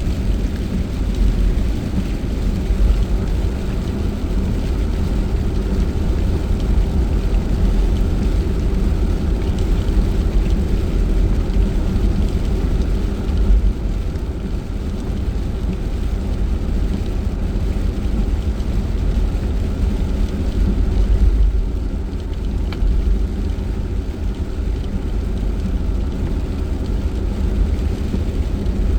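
Car driving noise heard inside the cabin: a steady low rumble of engine and tyres on the road, with a faint hiss above it.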